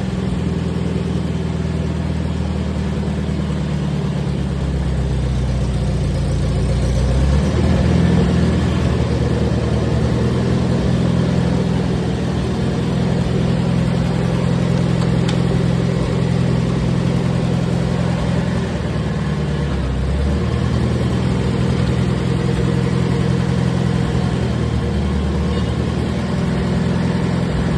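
International Harvester Farmall 230 tractor's four-cylinder engine running steadily, held above idle by a wire rigged to the throttle because the linkage rod is too short to let it idle. The engine note shifts a few seconds in and again about twenty seconds in.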